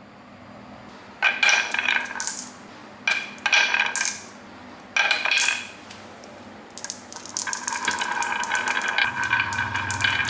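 Small hard balls, such as marbles, rattling and clinking along a track: three short bursts of rapid clicks, then a longer continuous clatter from about two-thirds of the way in.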